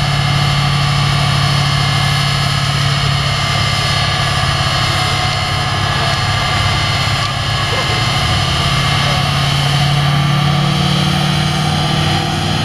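Turbo-diesel pickup engine running loud and steady on a chassis dynamometer, its pitch holding nearly constant.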